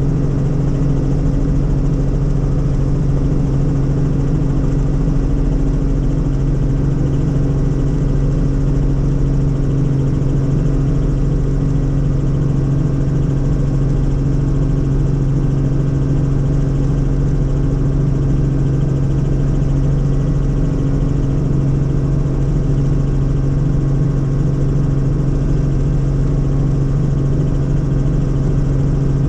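Helicopter in steady flight heard from inside the cabin: a loud, unchanging drone of engine and rotors with a constant low hum.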